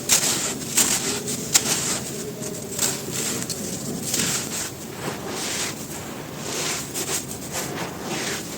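Crispy, dry, dusty cylinders crumbling and crunching apart, with irregular crackles and snaps, some sharper and louder than others.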